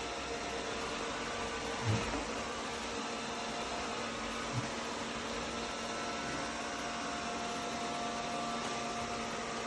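A Eureka E20 Plus robot vacuum running steadily, a constant whirring hiss with faint steady hums over it. There are two brief low knocks, about two seconds in and again about four and a half seconds in.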